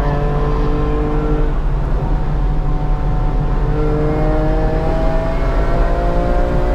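BMW E46 M3's 3.2-litre straight-six pulling under throttle, heard from inside the car over road noise. Its pitch climbs slowly, drops out of the foreground for about two seconds, then climbs again from about four seconds in.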